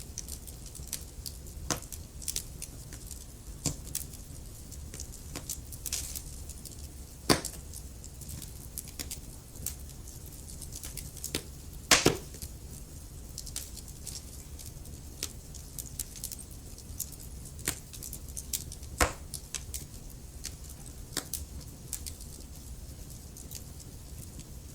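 Wood fire burning in a fireplace: a steady low rumble under irregular crackles and sharp pops, the loudest pops about seven and twelve seconds in.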